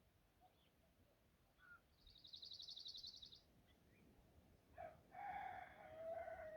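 Faint outdoor bird sounds: a small bird gives a rapid high trill of about a second and a half. A few seconds later comes a lower, longer animal call, with a short first note and then a held note of about two seconds that drops at the end.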